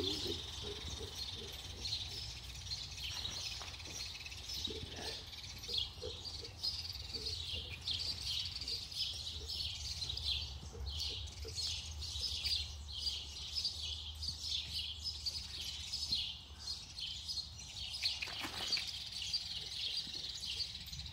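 Small birds chirping repeatedly throughout, over the soft thuds of a horse's hooves moving in sand and a low steady rumble.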